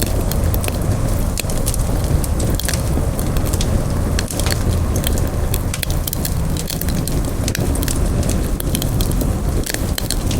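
Campfire crackling: many sharp, irregular pops and snaps, several a second, over a steady low rumble of burning flames.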